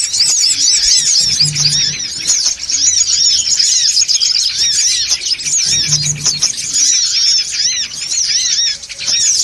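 Sunbirds (songon otong) chattering busily, many short rising-and-falling chirps overlapping with no pause. This is a noisy lure call played to draw sunbirds in.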